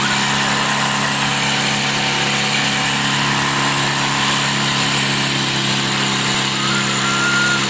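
A small boat's engine running steadily at a constant speed, mixed with the hiss of wind and water from the boat moving along.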